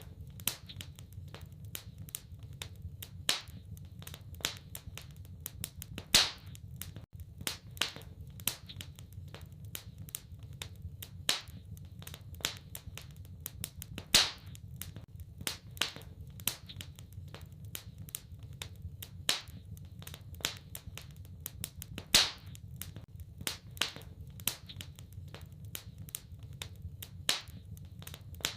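Wood fire crackling in a fireplace: irregular sharp cracks several times a second, with a louder pop every few seconds, over a steady low rumble.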